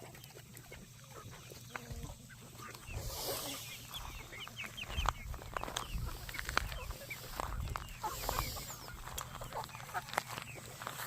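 Poultry clucking and calling, many short calls overlapping, with two brief rushes of noise about three and eight seconds in.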